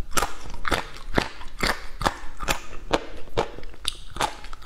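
Close-miked crunchy chewing of spicy braised food, a sharp crunch about twice a second.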